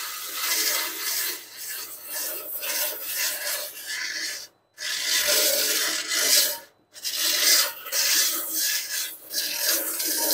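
Coarse 36-grit sandpaper on a hand block rasping back and forth over cured Duraglass short-strand fiberglass body filler, shaping a filled dent flush. Quick repeated strokes, pausing briefly twice near the middle.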